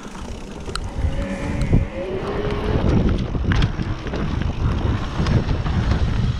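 Wind buffeting the microphone with the rumble and rattle of a mountain bike rolling fast over a dirt trail, with a few sharp knocks from bumps.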